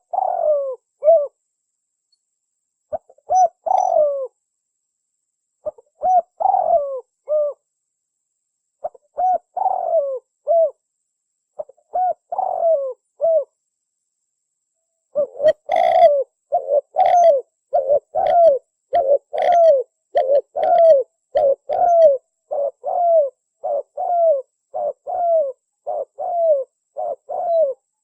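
Spotted dove (tekukur) cooing as a recorded lure call. For the first half it gives short phrases of a few coos every three seconds or so; from about halfway it breaks into a fast, almost unbroken run of coos, about one and a half a second, with a few sharp clicks at the start of the run.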